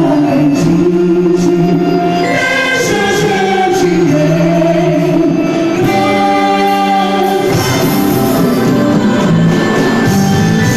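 Music with a choir of voices singing held, shifting notes.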